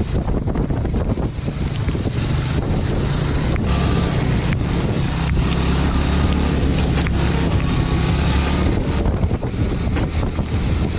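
Small fishing boat's engine running steadily under heavy wind buffeting the microphone. The engine hum is strongest in the middle and eases about nine seconds in.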